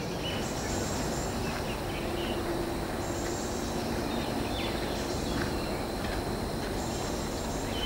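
Steady outdoor background noise with faint bird chirps here and there.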